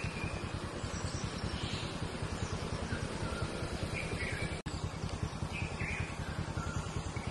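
Birds chirping in short calls every second or so over a steady low rumble. The sound cuts out for an instant about two-thirds of the way through.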